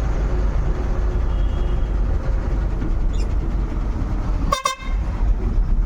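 Steady low rumble of a truck on the move, with one short vehicle horn toot about four and a half seconds in.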